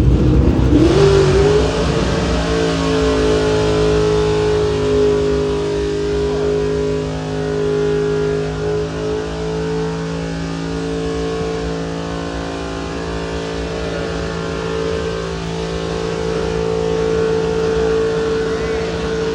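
A truck engine revving up in about the first two seconds, then held at high revs at a steady pitch in a burnout, over a steady hiss.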